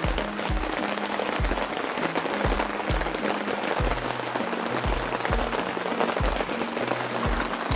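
Heavy rain falling steadily, under background music with a low, even beat about twice a second.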